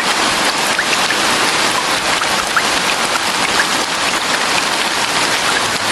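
Steady rain sound effect: a dense, even hiss of falling rain with scattered small droplet plinks, starting suddenly.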